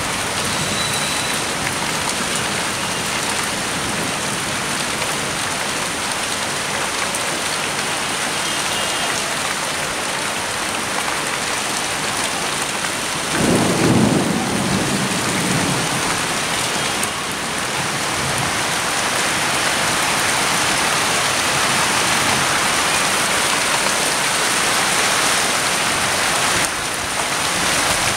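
Steady rain falling, the season's first rain, with a brief low rumble about halfway through that is the loudest moment.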